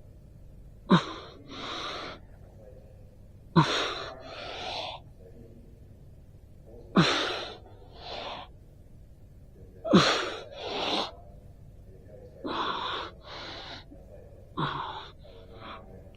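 A person breathing hard in pairs, six times about every three seconds: a sharp voiced gasp, then a second, longer breath.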